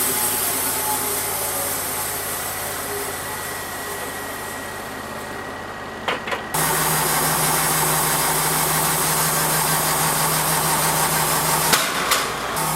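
An engine running steadily. About six and a half seconds in, after a couple of clicks, the sound changes abruptly and then runs steady again, with a few more clicks near the end.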